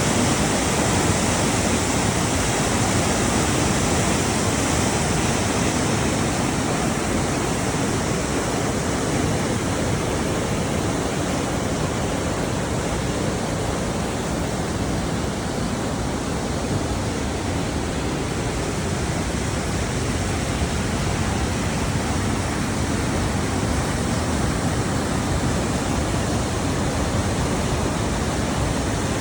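River water rushing steadily, an even roar of moving water that does not change.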